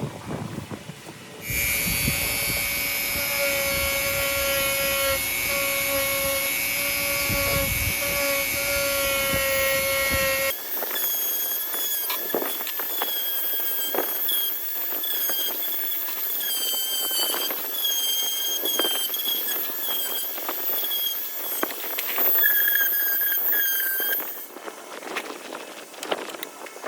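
A small high-speed power tool running with a steady whine and squeal. About ten seconds in the sound cuts abruptly to a higher, wavering squeal with scattered clicks, which stops near the end.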